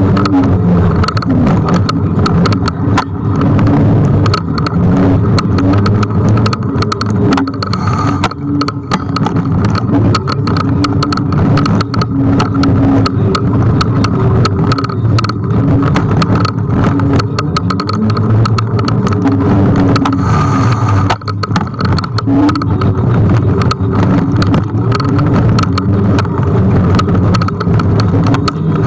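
Riding noise from a Kugoo G1 electric scooter in motion: continuous road and wind rumble with a pitched hum that rises and falls, and many short rattling clicks and knocks throughout.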